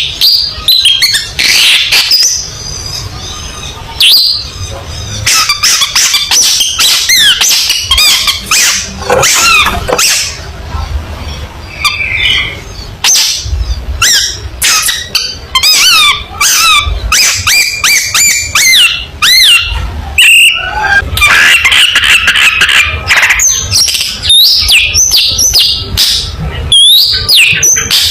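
Long-tailed shrike (cendet) in full song: a loud, rapid, unbroken run of varied whistled glides mixed with harsh chattering notes.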